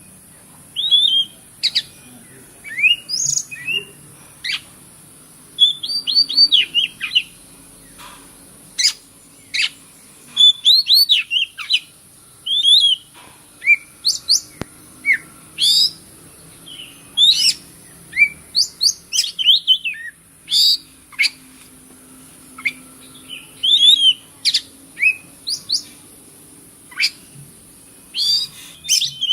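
Oriental magpie-robin (kacer) singing a fast, varied song of short whistled notes and quick sweeping chirps in irregular bursts, over a steady high-pitched hiss.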